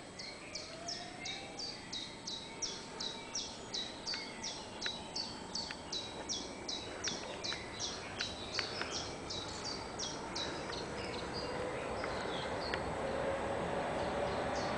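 A small bird repeating one short, high, downward-sweeping chirp about three times a second, fading out after about ten seconds. Under it a steady hum grows louder toward the end.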